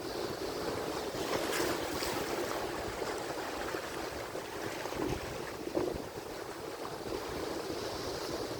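Atlantic Ocean surf: a steady wash of breaking waves, with a few brief splashing surges about a second and a half in and again around five seconds in.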